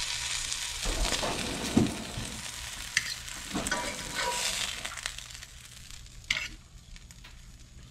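Fish fillets sizzling in olive oil in a cast-iron skillet, with a few sharp clinks of a metal fork against the pan as they are lifted out. The sizzle dies down about five seconds in.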